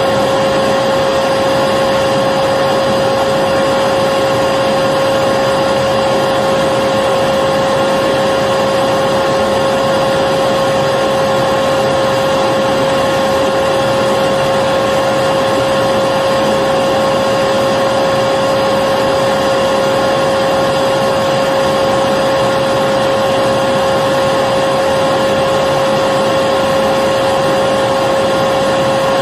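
Electric vacuum cleaner running at a steady speed: an even motor whine over the rush of air.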